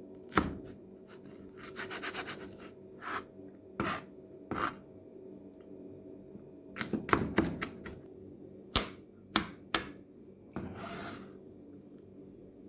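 Kitchen handling while preparing onions: scattered sharp clicks and knocks with rubbing and rustling, and a quick run of ticks about two seconds in.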